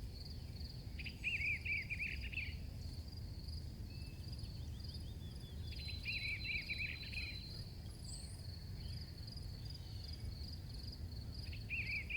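Crickets chirping in a steady, fast pulsed trill, with three short bursts of a lower chirping call about five seconds apart, over a faint low hum.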